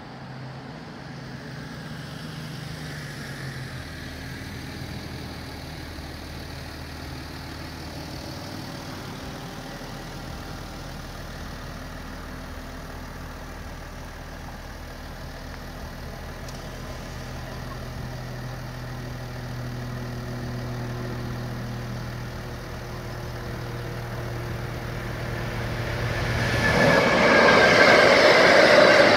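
Freight train approaching a level crossing: a low, steady hum swells slowly, then about 26 seconds in the train reaches the crossing and its wagons rumble past loudly.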